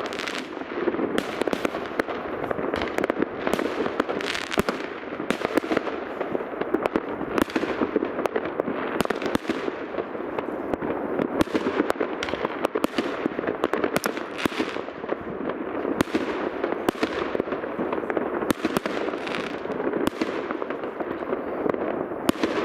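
New Year fireworks going off in several places at once, near and far: a dense, unbroken stream of bangs and pops with no pause.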